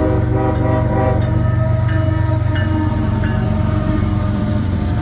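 Freight diesel locomotive's air horn sounding a steady chord that trails off over the first second or so, over the steady low rumble of the locomotive.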